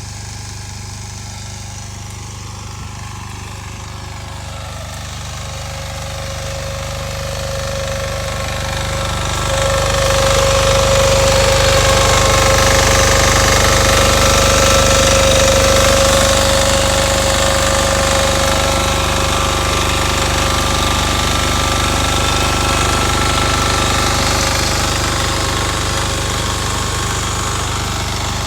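Two-wheel walking tractor with a rear-tine tiller running steadily. It grows louder over the first ten seconds or so, then holds, with a steady whine over the engine sound.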